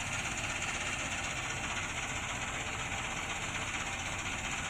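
Combine harvester running steadily. A constant engine drone sits under an even, hissing machinery noise, with no change in pace.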